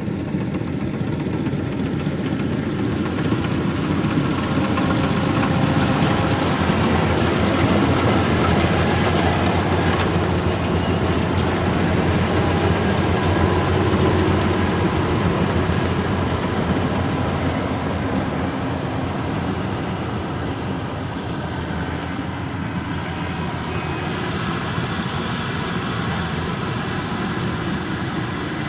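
Rice combine harvester running steadily, its engine and threshing machinery working without a break and growing a little louder in the middle.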